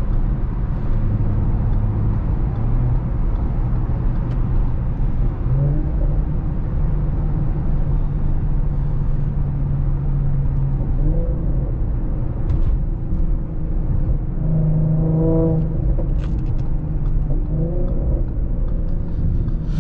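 2017 Audi SQ5's turbocharged V6 with AWE non-resonated downpipes and Touring cat-back exhaust, heard from inside the cabin with the windows up: a low, steady exhaust drone over road noise. The engine note changes pitch a few times as the speed and gear change.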